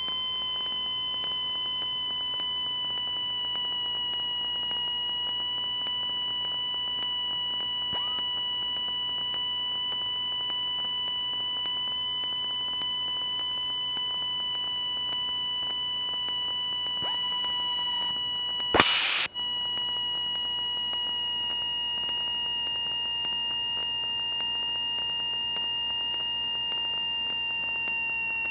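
A steady, high-pitched electrical whine with overtones over a low hiss in a light aircraft's cockpit audio feed, its pitch sagging very slightly, with a brief burst of static about two-thirds of the way through.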